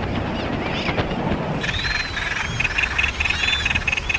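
Seabird colony calling: many overlapping high calls and chirps, growing thicker about a second and a half in.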